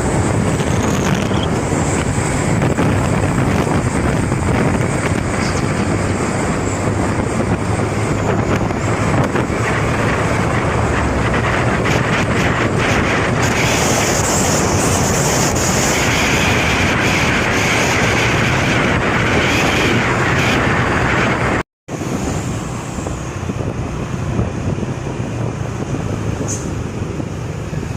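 Steady road noise from a vehicle travelling on a highway: engine and tyre rumble with wind on the microphone. The recording drops out briefly about three-quarters of the way through and is a little quieter after it.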